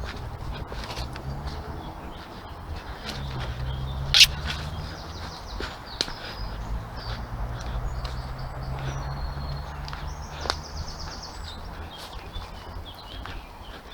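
Footsteps along a woodland path, with a low rumble of wind and camera handling. Birds chirp in the background. One sharp snap stands out about four seconds in.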